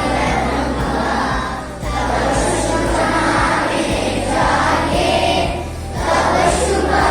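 A gathering singing an anthem together in chorus, in long sung phrases with short breaks about two and six seconds in.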